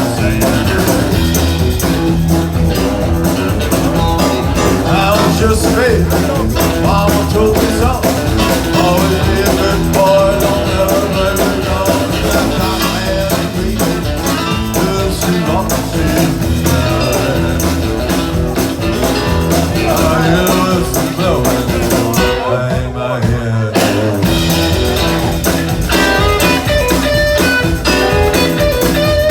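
Live band playing blues-rock with electric guitar, a steady beat and singing; the music thins out briefly about three quarters of the way through.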